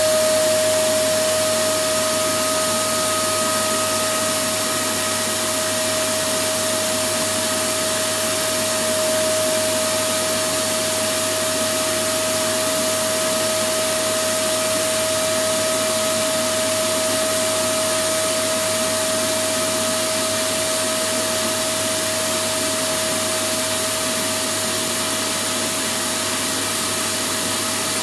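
Vacuum cleaner running steadily, played as white noise: a constant rush of air with a steady whine held through it.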